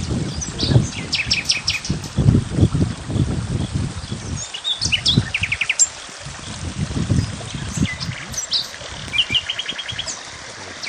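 Small birds chirping outdoors, with short calls and quick trills repeating several times. Irregular low rumbles underneath are louder than the birdsong.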